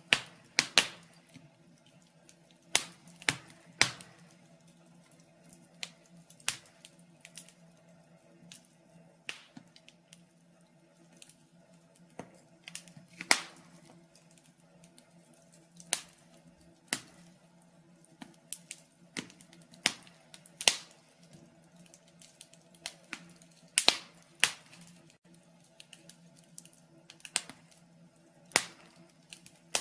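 Wood fire in a fireplace crackling: sharp, irregular pops and snaps every second or two, sometimes in quick pairs, over a faint steady hum.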